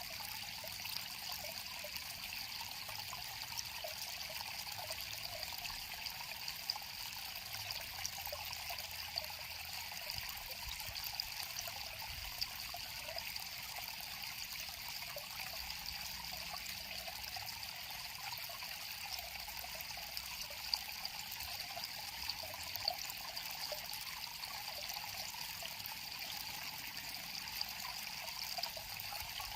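River water flowing and trickling steadily, with many small splashes and babbling over stones.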